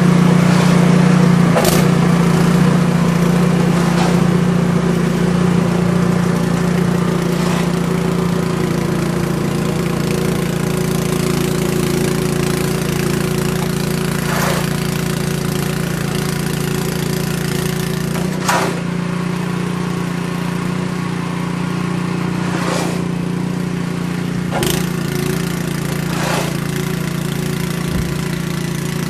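An engine running at a steady speed, with a few sharp clicks or knocks scattered through it.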